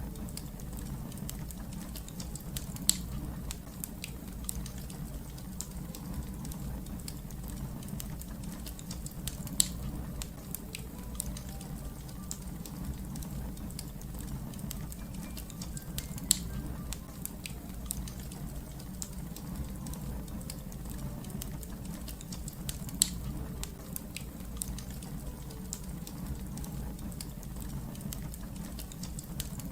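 Wood fire crackling steadily: a low rumble of burning with a constant scatter of small snaps, and four sharper, louder pops spaced roughly seven seconds apart.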